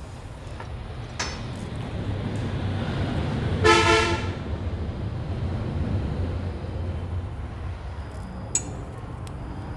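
A passing vehicle: a low rumble swells and slowly fades, with a short horn toot at its loudest, about three and a half seconds in. A couple of sharp clicks sound, one about a second in and one near the end.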